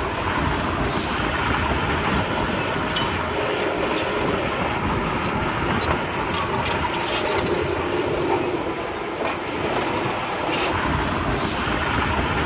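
Komatsu D31P crawler bulldozer working, its diesel engine running steadily, with scattered metallic clanks from the steel tracks and blade.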